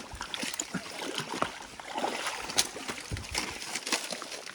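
Stream water splashing and sloshing, with many small irregular splashes and knocks.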